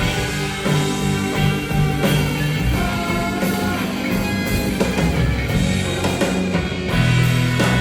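Rock band playing live: an instrumental stretch of a psychedelic rock song, with guitars and a drum kit.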